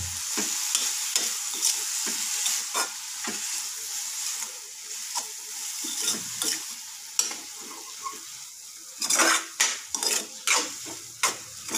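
Cluster beans sizzling in a kadhai on a full flame while a spatula stirs and tosses them, scraping against the pan. The scrapes come irregularly and grow louder and closer together in the last few seconds.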